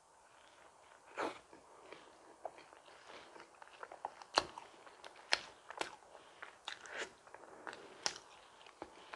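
Person chewing and biting into a donut: soft wet mouth sounds with irregular sharp clicks, the loudest a little past four seconds in.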